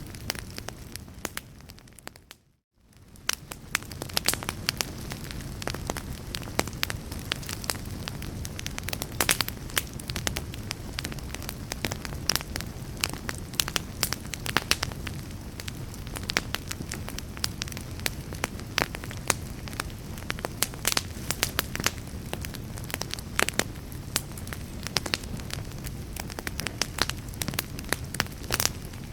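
Wood fire in a fireplace crackling, with frequent sharp pops over a low rumble of the flames. About two seconds in the sound fades down to silence and swells back up within about a second.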